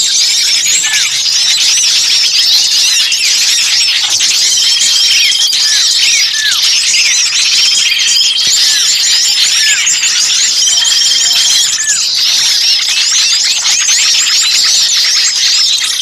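A dense, noisy chorus of many small songbirds chirping and twittering over one another without a break, from a bird-lure recording. A few held high whistles come through about a second each, at roughly 4, 8 and 11 seconds in, along with some short falling notes.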